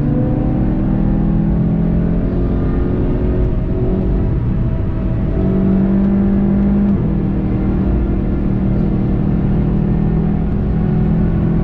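VW Golf 7.5 GTI TCR's turbocharged 2.0-litre four-cylinder engine under hard acceleration. The engine note rises in pitch as the car gathers speed, with a gear change partway through.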